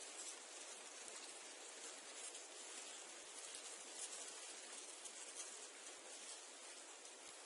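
Reeds and sedge rustling faintly and steadily in the wind, a soft, dry hiss of leaves with small flicks of movement.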